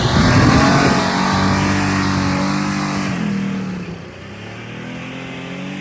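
Vehicle engine running under throttle, loud and revving at first, then dropping in pitch about three seconds in and easing off a second later as the novice driver lets the clutch out in low range.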